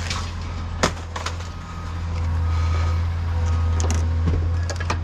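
Steady low rumble of a running vehicle engine, with a few sharp clicks or knocks about a second in and again near the end.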